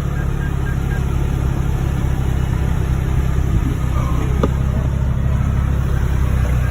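McLaren sports car running at low speed: a steady low engine drone that grows slightly louder.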